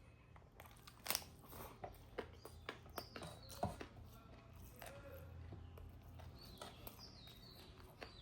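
A person eating: chewing and biting with scattered crunches, mouth clicks and smacks, a few of them sharp and louder.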